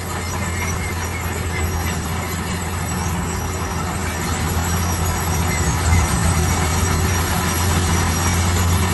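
Heavy construction machinery running: a steady low engine drone under a noisy mechanical clatter and scraping, slowly getting louder.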